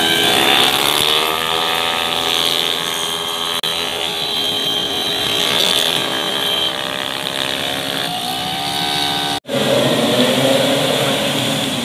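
Small racing motorcycle engines revving hard as bikes accelerate out of a corner, their pitch climbing and then holding high. About nine and a half seconds in the sound breaks off, and a pack of racing scooters running together takes over.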